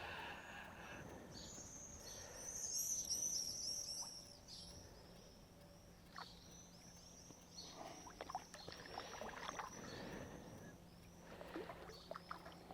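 Small birds twittering in quick, high, repeated chirps, loudest about two to four seconds in. From about eight seconds there are irregular water splashes as a hooked chub is brought through the shallows.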